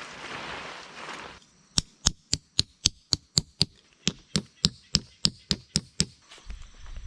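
A quick, even series of about sixteen sharp knocks with a slight ring, nearly four a second, after a second of rustling.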